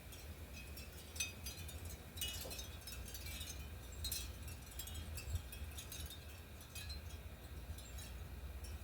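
Small birds at a feeder giving many short, high chip calls, scattered irregularly and thickest a couple of seconds in, over a steady low rumble.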